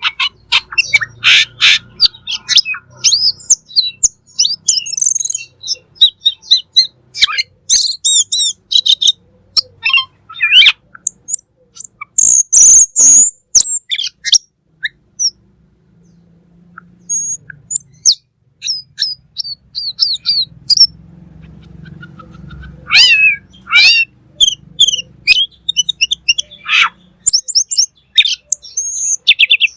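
Cucak keling bird singing in busy bursts of quick chirps, whistles and short trills. There is a loud, harsh call about twelve seconds in, then a lull of several seconds before the song starts again.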